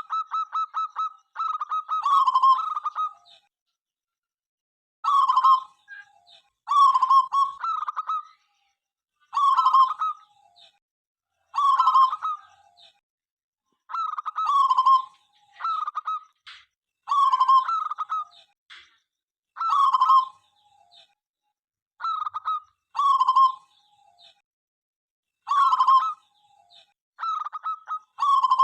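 Zebra dove (local perkutut) cooing: phrases of rapid, pulsing staccato notes, each about a second long, repeated every two seconds or so.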